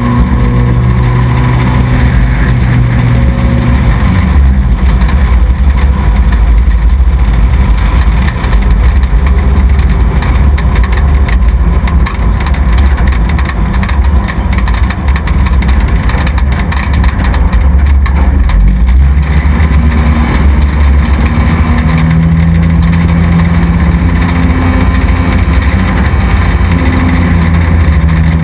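Race truck's engine running loud under the mounted camera, with rumble and wind noise. Its pitch drops about four seconds in and climbs again near the end as the throttle changes.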